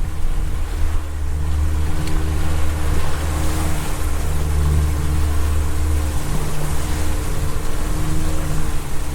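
A fishing boat's motor running steadily under way, its low drone wavering slightly, with wind and choppy water rushing against the hull.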